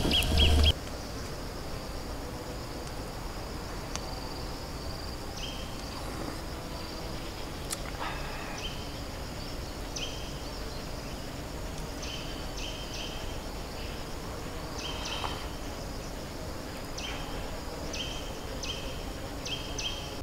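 Forest ambience with a bird repeatedly giving short, clipped two-pitched calls, each stepping down, at irregular intervals over a steady low background. A louder sound with deep bass cuts off under a second in.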